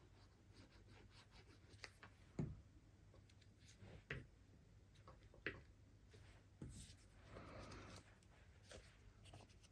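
Near silence, with a few faint taps and a soft rustle from small paper craft pieces being handled and fitted.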